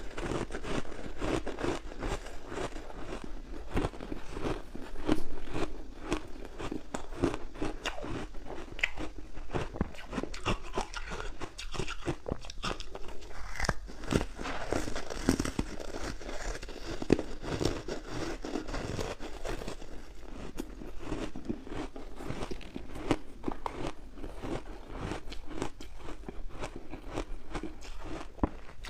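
Ice being bitten and chewed close to the microphone: a rapid, continuous run of crunches and crackles.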